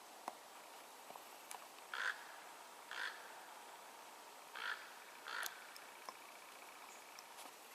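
A crow-like bird cawing: four short caws, two pairs about a second apart, with a few faint ticks in between.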